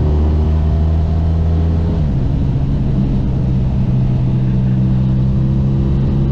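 Motorcycle engine running steadily on the road, its note shifting about two seconds in.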